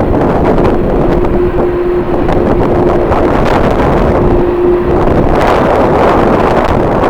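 Strong wind buffeting the microphone, a loud, continuous rumbling roar. A steady hum-like tone sounds through the first three seconds and again briefly near the middle.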